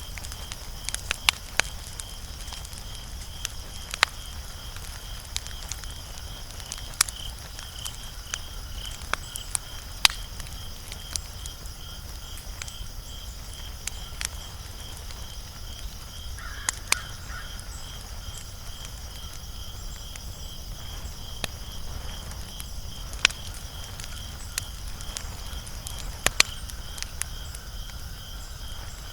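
Wood fire crackling, with sharp irregular pops a second or two apart, some much louder than others. Behind it runs a steady high pulsing trill like crickets, and a low steady rumble.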